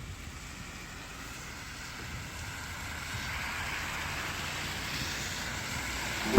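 Street traffic: a steady rushing hiss that slowly grows louder, as of a vehicle approaching.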